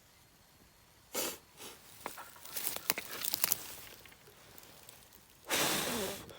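Scattered sharp cracks and snaps with rustling, like small sticks being handled and broken, then a loud, breathy rush of noise lasting nearly a second near the end.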